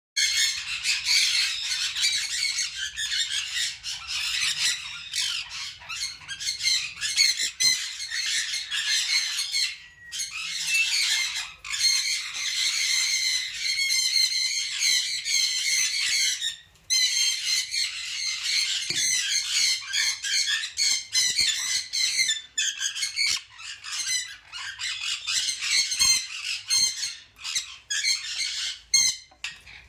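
A flock of many birds calling and squawking over one another in a dense, continuous chatter of high calls, with a brief lull about two thirds of the way through.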